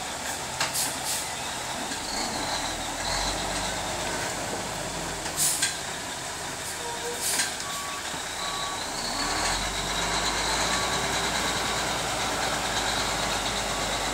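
Log truck manoeuvring with its engine running and its reversing alarm beeping, with a few short sharp bursts of air hiss from the air brakes. The engine's low rumble grows stronger about two thirds of the way through.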